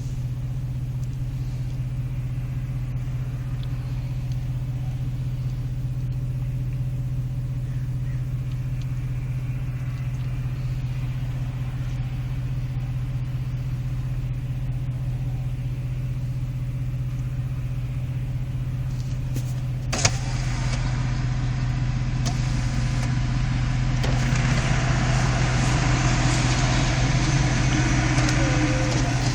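5.7-litre Hemi V8 with a resonator-delete custom side exhaust idling steadily with a low rumble. About two-thirds of the way through there is a click, and after it a broader hiss rises a little over the idle.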